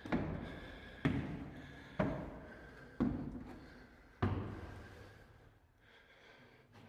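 Footsteps at a slow walking pace, about one a second, each with a fading echo; the fifth step comes about four seconds in and then they stop.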